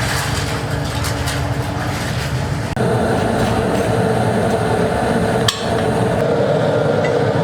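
Steady workshop machinery noise with a few light metallic knocks in the first second or so. About three seconds in it changes abruptly to a steadier running noise, with one sharp click a couple of seconds later.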